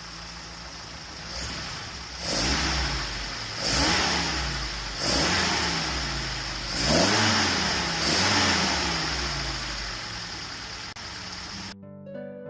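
1972 Toyota Sprinter Trueno TE27's 2T-G 1.6-litre DOHC inline-four with a Fujitsubo exhaust idling, then blipped about five times, each rev rising and falling back to idle. It cuts off near the end, where plucked harp music starts.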